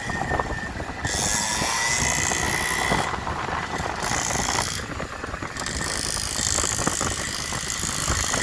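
49cc dirt bike engine running steadily with a thin, high whine and small rattles, with stretches of hissing noise that come and go.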